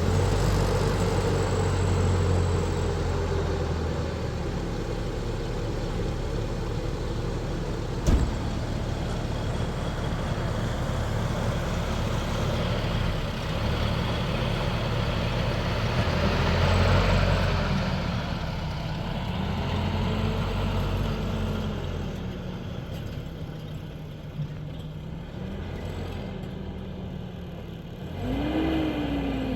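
A motor vehicle's engine running steadily, its pitch rising and falling as it works, with one sharp knock about eight seconds in and a rev rising near the end.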